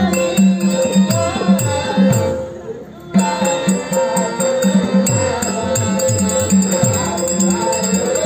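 Instrumental interlude of Dashavatar stage accompaniment: held harmonium notes over a pakhawaj's bass strokes sliding down in pitch, with small cymbals ticking. The music thins out briefly about two seconds in and comes back in full about a second later.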